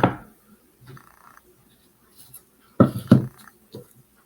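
Sharp knocks: one at the start, then two more in quick succession about three seconds in, with faint small clicks between.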